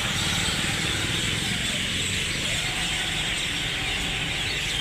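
Dense, continuous chorus of many birds chirping together, with a steady low traffic hum beneath it.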